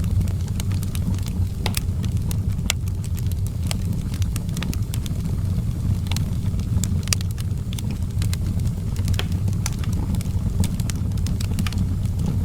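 Wood fire in an outdoor fireplace crackling, with irregular sharp pops and snaps over a steady low rumble.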